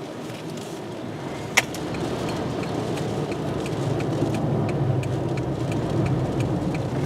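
Steady road and wind noise inside a car driving through a tornado's dust storm. There is a single sharp knock about a second and a half in, and from about two seconds in a regular light ticking, two to three ticks a second.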